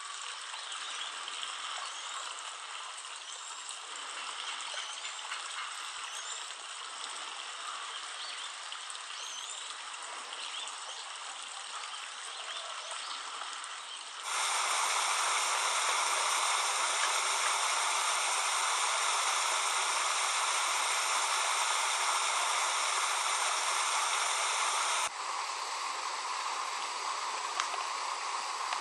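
Steady rush of running water, with faint short high chirps in the first half. The rush becomes suddenly louder and brighter about halfway through, then drops back abruptly near the end.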